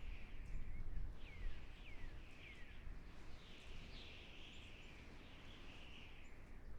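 Forest ambience: small birds calling, with a few quick falling chirps followed by a longer buzzy chatter, over a steady low rumble.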